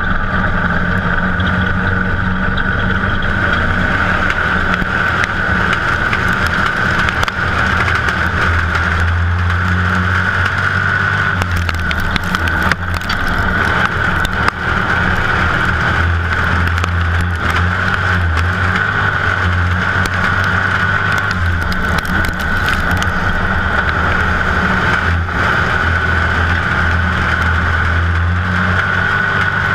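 USRA stock car's V8 engine running steadily, heard from inside the cockpit, with no big revving.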